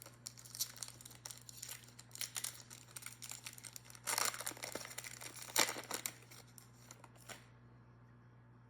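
Crinkling and crackling of trading-card pack wrappers and plastic as sports cards are unpacked and handled. The loudest rips come about four and five and a half seconds in, and the handling stops about seven seconds in, leaving a low steady hum.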